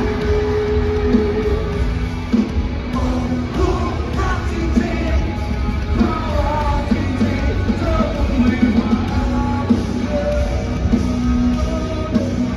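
Live rock music at a concert: a full band plays loudly and steadily while a singer sings over it.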